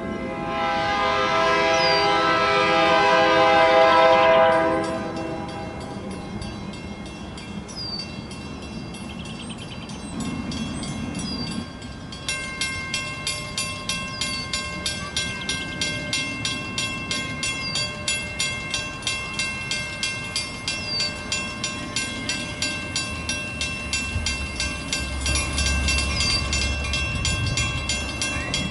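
Metra commuter train's air horn sounding one long chord of several tones, then a bell ringing steadily about twice a second as the train draws into the station. A low rumble of the train builds near the end.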